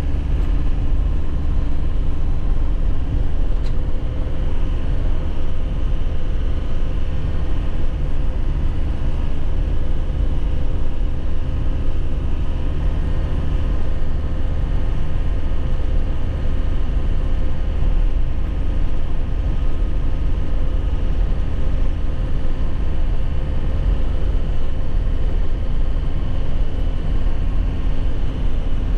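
2001 Nissan Cabstar light truck driving at a steady pace, its engine running evenly under a heavy low rumble of road and tyre noise, heard from inside the cab.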